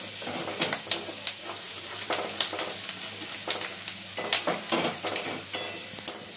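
Whole spices, ginger and chilli frying in hot oil in a kadai, a steady sizzle, while a flat spatula stirs and scrapes the pan with many quick clicks and taps against the metal.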